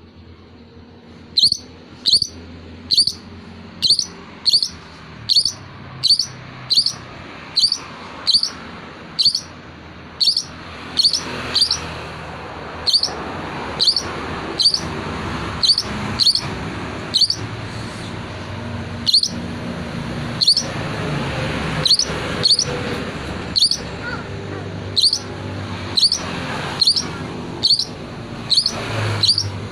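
Long-tailed shrike (cendet) repeating one short, sharp, high call that drops slightly in pitch, about three calls every two seconds, starting about a second and a half in, over a steady background hiss.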